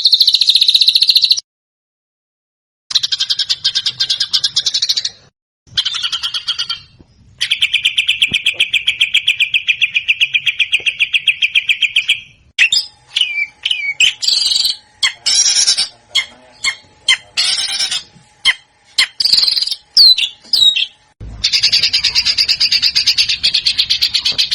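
Recorded songbird song of the masteran kind used to train competition birds: fast, dry, rapid-fire trills (the 'tembakan' type of phrase), a long steady trill lasting about five seconds in the middle, then a run of varied short chirps and whistles before another fast trill near the end. The phrases are spliced clips, broken by sudden complete silences.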